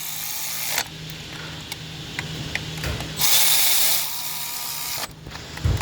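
Two short bursts from a handheld power tool, each under a second and about three seconds apart, over a steady low hum, with a single thump near the end.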